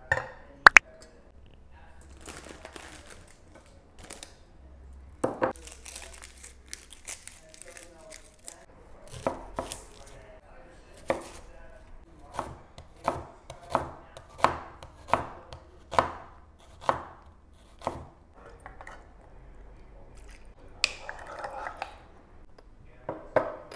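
Knife chopping food on a cutting board: a run of evenly spaced strokes about one a second through the middle, with a few scattered sharper knocks and a brief scrape around them.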